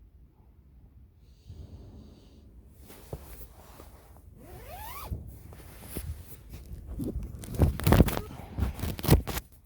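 Camping gear being handled: a zipper pulled with a short rising whine about halfway through, then rustling and a run of sharp clicks and knocks near the end.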